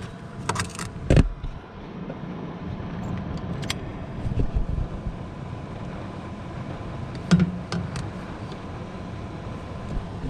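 Steady hum of running HVAC equipment, broken by several sharp clicks and knocks: a few about a second in, one near four seconds, and a cluster around seven to eight seconds.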